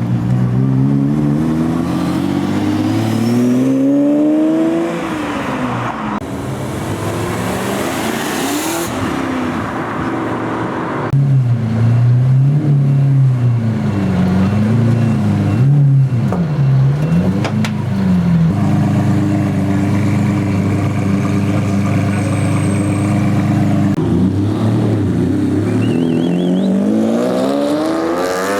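Supercar engines revving in several cut-together clips: a rising rev early on, a run of quick throttle blips in the middle, then a steady held rev, and another rising rev near the end.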